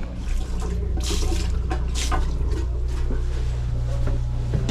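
Water splashing and trickling in irregular gushes over the steady low hum of the headboat's idling engines.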